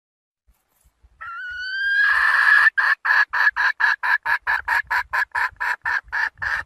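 Young red junglefowl hen calling to a cock, the call used as a lure for wild cocks. It opens with a rising drawn-out note about a second in, then breaks into a quick, even run of clucks at about four a second.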